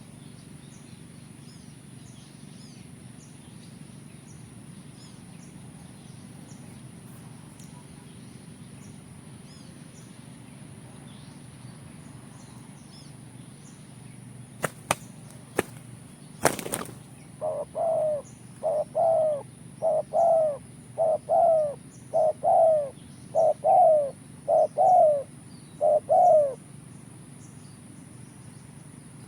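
Spotted dove (tekukur) cooing: a run of about nine short, pitched coo notes, a little over a second apart, growing louder. Just before it come a few sharp clacks.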